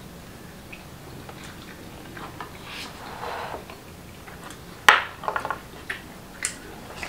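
Eating sounds: chewing of steamed mussels and clams, with light clicks of chopsticks against the shells and dishes. The loudest sound is a sharp click about five seconds in, followed by a few smaller clicks.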